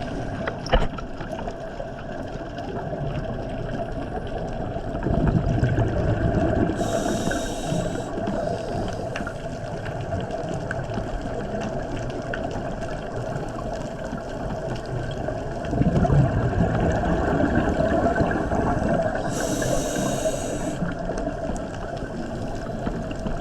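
Scuba diver's regulator breathing underwater, heard twice: bubbles from the exhale rumble, then the inhale hisses through the regulator, over a steady underwater hum.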